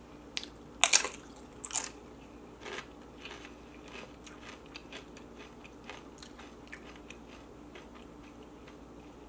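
Tortilla chip dipped in salsa bitten and chewed, with a few loud crisp crunches about a second in, then softer chewing crunches that thin out.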